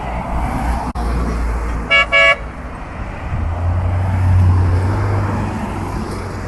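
A car horn gives two short toots about two seconds in, over the low steady rumble of a running engine that grows louder midway.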